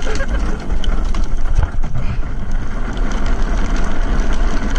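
Drift trike rolling at speed behind a pulling husky: a steady rumble from the wheels, with wind buffeting the microphone.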